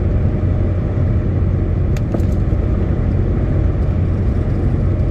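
Heavy truck driving at steady speed, heard from inside the cab: a constant low engine drone with even road and tyre noise. There is one faint click about two seconds in.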